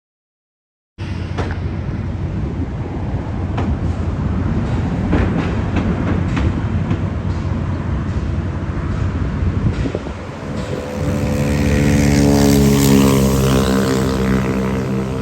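Steady outdoor traffic noise with scattered knocks. From about ten seconds in, a large engine grows louder and rises a little in pitch as a heavy vehicle passes close by.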